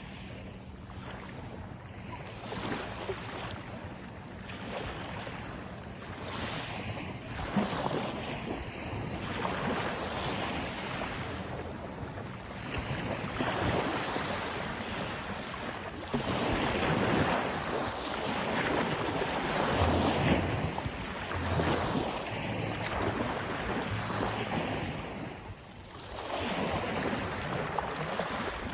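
Sea waves washing in and drawing back, the noise swelling and easing in surges every few seconds, with wind buffeting the microphone.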